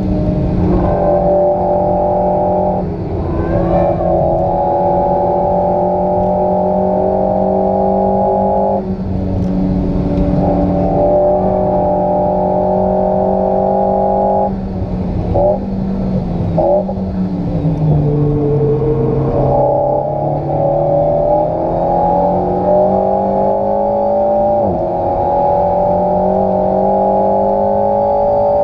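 Alpine A110's turbocharged 1.8-litre four-cylinder engine heard from inside the cabin, running hard at high revs under full throttle. It breaks off several times for brief lifts of the throttle, and its pitch jumps once with a downshift in the second half.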